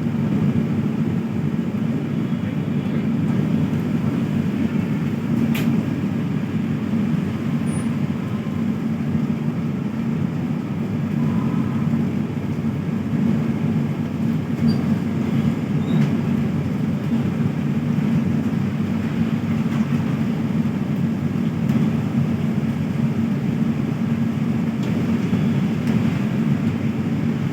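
A moving train running steadily, a continuous low rumble, with a single sharp click about five and a half seconds in.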